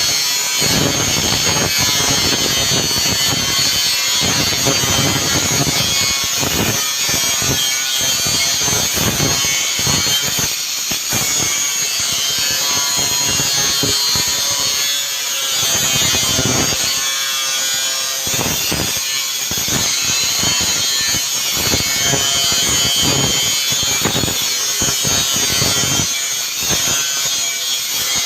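A saw cutting, running continuously with a rough, uneven rasp.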